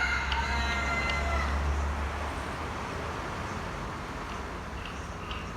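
The tail of a rooster's crow, a drawn-out pitched call that fades out about two seconds in, over steady background noise and low rumble.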